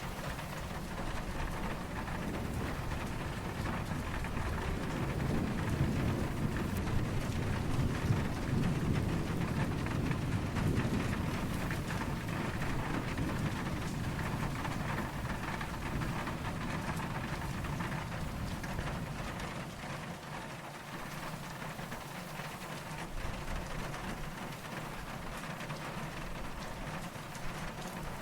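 Steady rain falling, with a low rumble of distant thunder that swells in the first half and fades away later.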